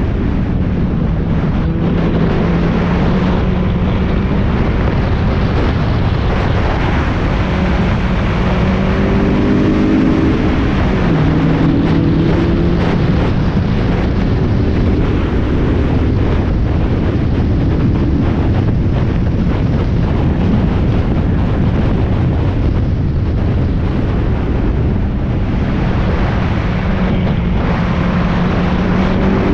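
Onboard sound of a Spec Miata's four-cylinder engine pulling hard at speed, buried in heavy wind and road noise. The engine note climbs and drops with the revs, with a gear change about eleven seconds in.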